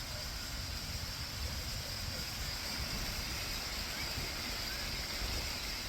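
Steady rushing of a tall waterfall, an even unbroken noise.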